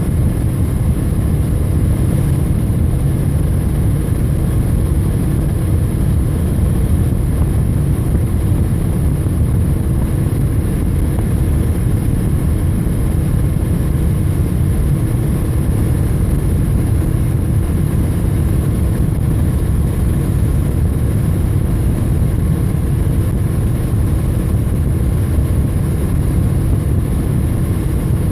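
Motorcycle running steadily at cruising speed, its engine drone mixed with heavy, even wind rush on the camera microphone.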